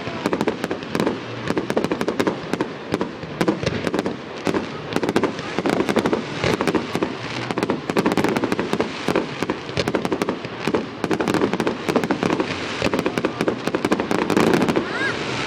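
Fireworks going off in a rapid, continuous string of bangs and crackles, many each second.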